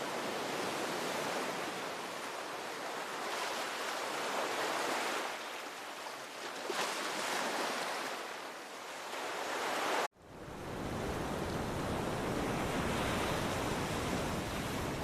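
Ocean surf washing in waves that swell and ease every few seconds. About ten seconds in the sound cuts out for an instant and resumes with a heavier low rumble, as from wind on the microphone.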